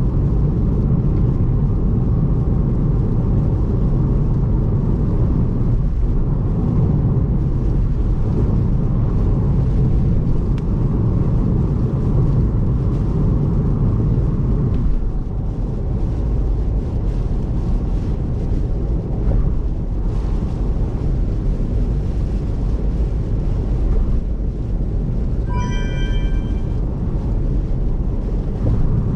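Steady low road-and-tyre rumble of a car driving on an expressway, heard from inside the car. Near the end there is a short electronic chime of several clear tones.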